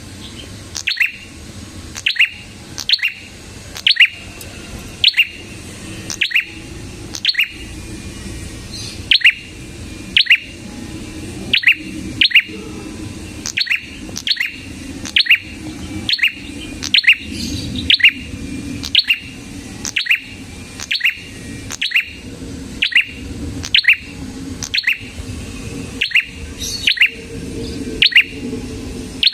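Prenjak kepala merah calling: one sharp, high chirp repeated very regularly about once a second, over a steady low hum.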